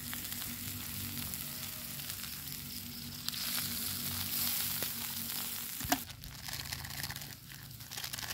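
Apple snails in spice paste sizzling in a wok over a wood fire, the sizzle growing louder about three seconds in as liquid from a small pot is poured into the hot pan. A single sharp knock near the six-second mark.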